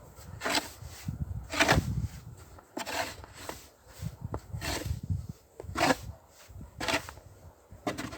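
Snow shovel scraping and scooping snow in short strokes, about one a second.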